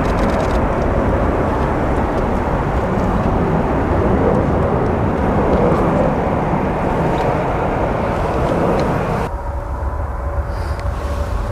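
Jet airliner engines running loud, a broad rushing noise. About nine seconds in it cuts off abruptly, leaving a quieter steady whine.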